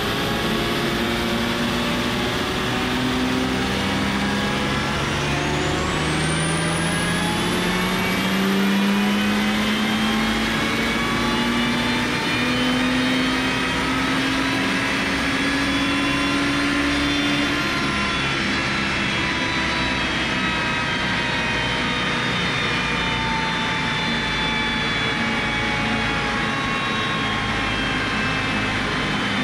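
Tuned Audi 2.5 TDI V6 diesel with compound turbos, run on a chassis dyno's rollers under full-load pull. The engine runs steadily in gear, then from about four seconds in its note climbs slowly for some thirteen seconds, with a high whine rising alongside. Then it backs off and the note gradually falls as the car and rollers wind down.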